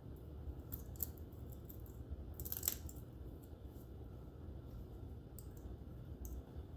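Hand tools and small metal parts being handled: scattered light clicks and a short clatter about two and a half seconds in, over a low steady hum.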